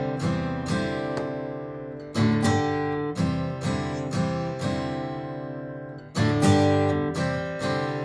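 Martin GPCPA4 acoustic guitar played alone: picked chords that ring on, with fresh strong strums about two seconds in and again near the end.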